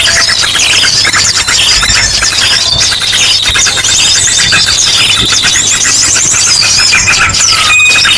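Bird-lure recording: a dense, noisy chorus of small birds' rapid chirps and trills mixed with ashy drongo calls, with a held whistle about halfway through.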